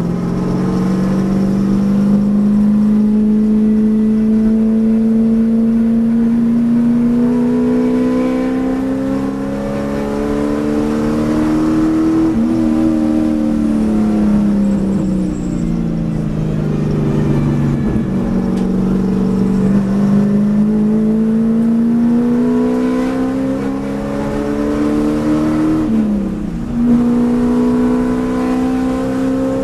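A race car's engine heard from inside the cabin. The revs climb steadily under acceleration, fall away for several seconds while the car slows for a corner, then climb again, with a sharp drop and recovery near the end like an upshift.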